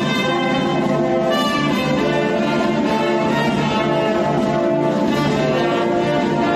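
A band playing an instrumental passage in rehearsal: a melody of held notes changing every second or so over a steady bass note.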